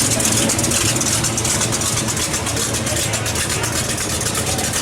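A car engine idling steadily, with a murmur of voices around it.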